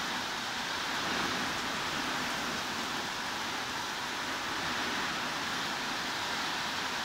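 Steady heavy rain: an even, unbroken hiss with no single drops standing out, strongest in the middle and upper range.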